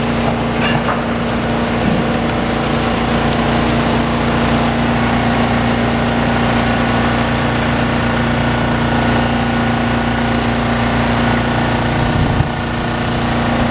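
Demolition excavator's diesel engine running steadily at a constant pitch, with a single low knock near the end.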